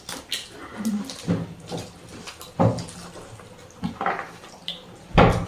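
Eating at a table: scattered short clicks and knocks of dishes and food being handled and chewed, with one louder knock near the end.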